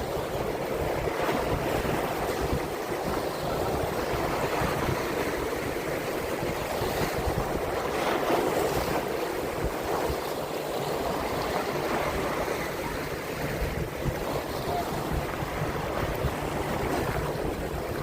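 Surf washing on the shoreline, a steady rushing noise, with wind buffeting the microphone.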